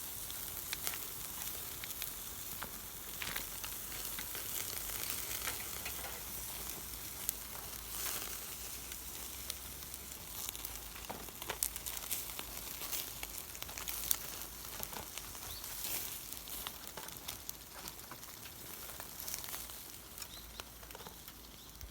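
Meat sizzling on a grill over a fire, a steady hiss with many sharp pops and crackles scattered through it.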